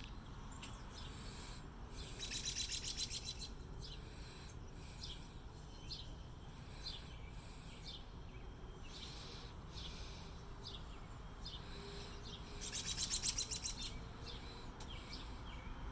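Wild birds singing and chirping: short high chirps throughout, with two longer rapid trilling songs, about two seconds in and again near the end.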